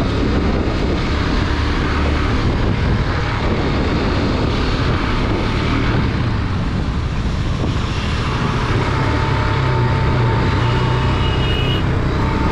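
KTM RC 390's single-cylinder engine running steadily as the motorcycle rides along, with wind rushing over the camera microphone.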